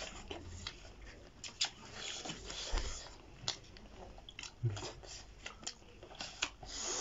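Several people chewing and biting duck meat, with irregular sharp mouth clicks and smacks.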